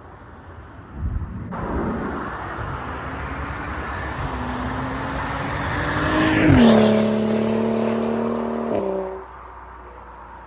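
BMW 135i's N55 turbocharged straight-six, through an M Performance exhaust with a decat downpipe, accelerating hard and building in pitch and loudness as the car approaches. About six and a half seconds in it is loudest, and the pitch drops sharply as the car goes past. The engine note then carries on steadily and cuts off abruptly about nine seconds in.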